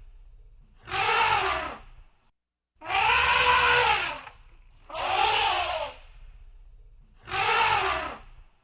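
Elephant trumpeting: four loud, brassy calls, each about a second long and rising then falling in pitch, repeated about every two seconds.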